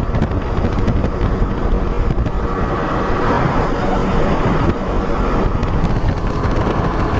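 Speedboat engine running steadily under a rush of wind and water.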